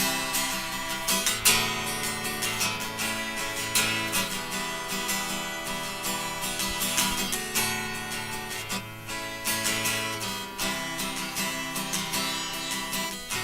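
Acoustic guitar strumming chords in a steady rhythm, an instrumental outro with no singing.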